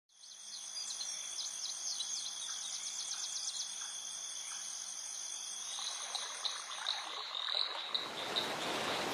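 Nature ambience: insects droning steadily at several high pitches, with rapid trains of frog calls over them. A broad hiss builds up near the end.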